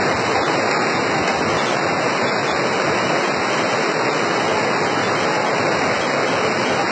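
Very heavy rain pouring down: a dense, steady rush of water noise.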